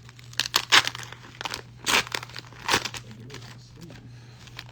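Crinkling of card packaging being handled, in several short, sharp rustles over the first three seconds, then quieter, over a steady low electrical hum.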